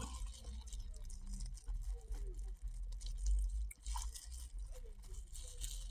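Close-up chewing of a toasted bread-roll sandwich filled with chips, Vienna sausage and cheese: soft crunching and wet mouth clicks, over a steady low hum.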